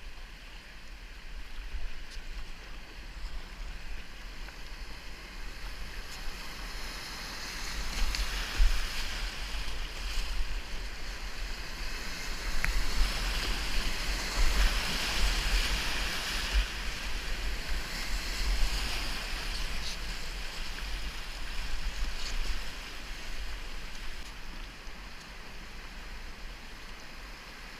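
River water rushing through whitewater rapids, a steady hiss that swells louder through the middle and eases off near the end, with a low rumble of wind on the microphone.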